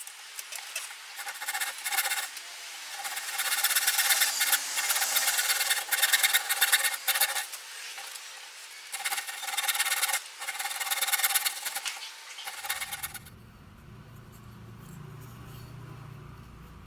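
Hand abrading of wood, rasping or sanding strokes in quick bursts, as the wooden frame of a skin-on-frame canoe is shaped. The abrading stops about 13 seconds in, and a quieter steady low hum carries on.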